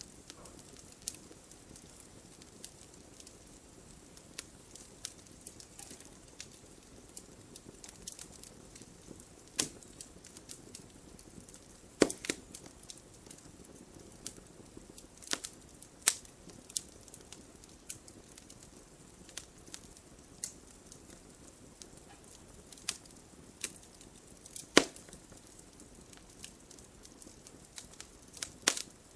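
Wood fire burning in a fireplace: irregular crackles and sharp pops over a soft steady hiss, with the loudest pops about twelve seconds in and again near twenty-five seconds.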